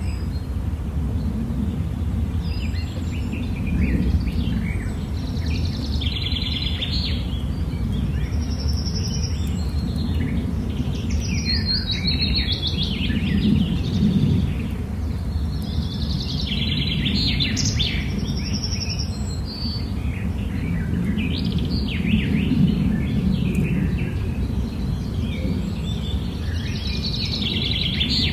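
Several birds chirping and singing in short, repeated phrases over a steady low rumble.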